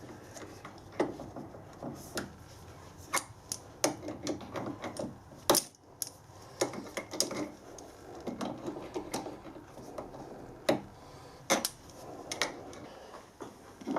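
Irregular light clicks and knocks of small brass oiler parts being handled and fitted together on a bench.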